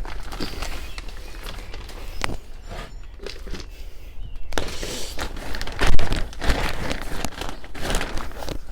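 Irregular rustling and crunching as compost is scooped and spread by hand around the base of a fig, with a louder knock about six seconds in.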